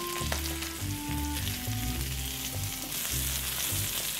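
Flour-dusted spot prawn tails sizzling steadily as they sear in a hot stainless-steel frying pan.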